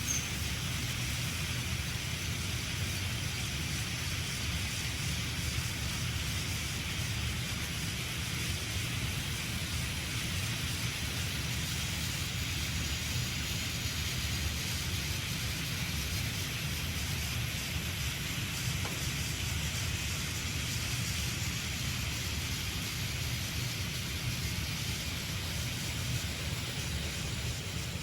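A battery-powered Plarail toy Thomas train pulling a long line of cars over plastic track, its motor whirring and its wheels rattling steadily.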